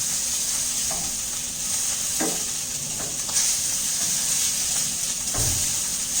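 Steaks searing in hot oil in a frying pan at high heat: a steady sizzle with oil spattering. A few light knocks, and a dull thump near the end.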